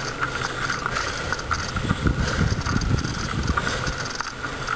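Bicycle freewheel clicking steadily as the bike coasts fast downhill. Wind rumbles on the microphone about two seconds in.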